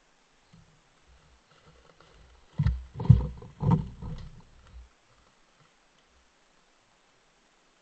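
Moose calling: a run of about five low, rough calls in just over two seconds, starting about two and a half seconds in.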